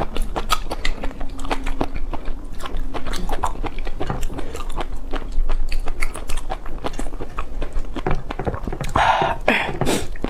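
Close-miked eating sounds: a person biting and chewing food, with many quick wet clicks and smacks at an irregular pace, and a louder, noisier burst about nine seconds in.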